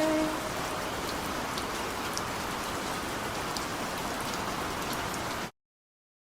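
Steady rain falling, an even hiss with scattered faint drop ticks. A held note from the end of a song trails off in the first half second, and the sound cuts off suddenly about five and a half seconds in, leaving dead silence.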